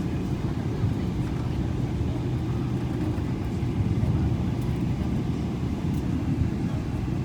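Steady low rumble of an airliner's running jet engines heard inside the passenger cabin, with a constant low hum, as the plane taxis.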